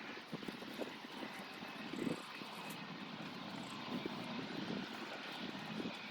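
Farm tractor engine running steadily while it pulls a chicken coop, with irregular low knocks and rattles.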